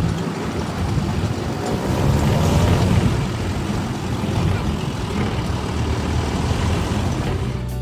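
A vehicle on the move: a steady rumble of engine and road noise.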